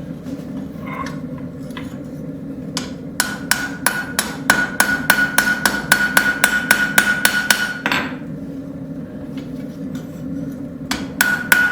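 Rounding hammer striking a hot railroad spike on an anvil. A fast run of about four blows a second, each with a bright ring, starts a few seconds in and stops about eight seconds in, and the blows start again near the end. A steady low hum runs underneath.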